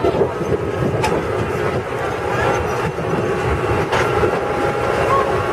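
Farm tour truck riding along with passengers on board: a steady rumble of the running vehicle with rattling, and sharp knocks about one and four seconds in.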